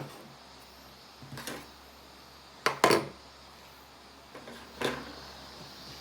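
A few separate knocks and clunks of objects being handled: a sharp knock at the start, a louder double clunk about three seconds in, and another near the end.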